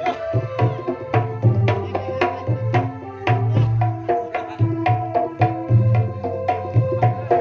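Kendang drums played in a pencak silat rhythm: a dense run of quick, sharp hand strokes over deep bass strokes that recur through the pattern.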